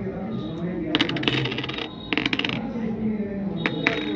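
Small metal objects clinking together in two quick rattling runs, then two single clinks near the end.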